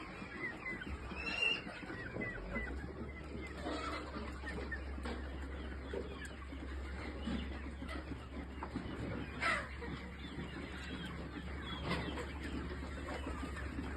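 A flock of Kadaknath chickens clucking and calling over one another, with a few louder calls standing out. A steady low hum sets in about two seconds in.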